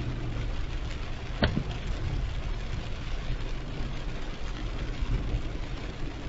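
Car driving in heavy rain: a steady rush of rain and road noise over the engine's low hum, with a single sharp knock about a second and a half in.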